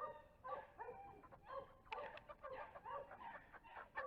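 Several chickens clucking in a rapid, overlapping run of short calls.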